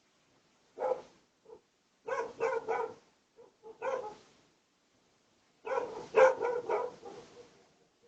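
A dog barking in short runs: a single bark, a quick three barks, a couple more, then a longer run of barks near the end.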